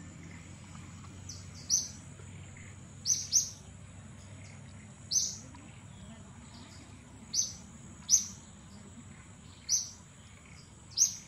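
Short, sharp bird chirps, about eight of them, one every one to two seconds, over a steady high-pitched whine and a low background hum.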